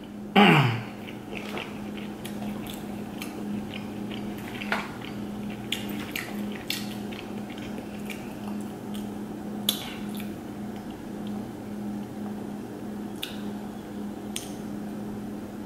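Soft, close-miked mouth and food-handling sounds: scattered small clicks and smacks of chewing and of fingers on a burger bun, over a steady low hum.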